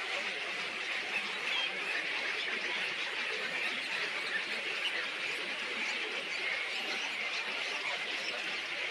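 Many small birds chirping and twittering together over a steady, hissy background.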